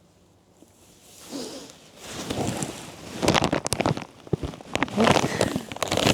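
Plastic packaging being handled: crinkling and crackling that starts softly about a second in and turns into dense, sharp crackles from about two seconds in.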